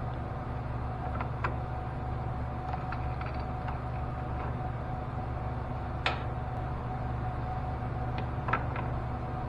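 Metal lathe running steadily with a constant hum and a steady tone while a washer's chamfer is refaced. A few light sharp clicks come over it, the loudest about six seconds in.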